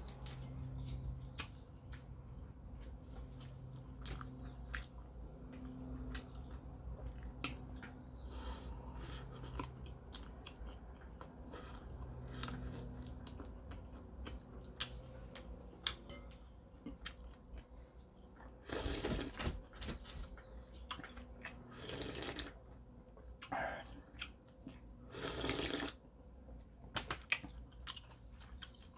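A man chewing a mouthful of prawn and ramen close to the microphone, with many small wet mouth clicks and smacks. In the second half come three louder noisy bursts of about a second each.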